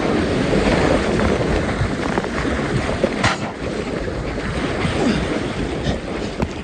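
Whitewater rushing and splashing around a kayak running a rapid, with a sharp splash about three seconds in. Wind buffets the microphone.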